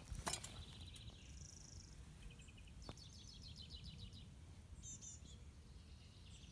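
Faint birdsong: a few short, high chirps and a quick run of repeated chirps in the middle, over a low, steady rumble of outdoor background noise.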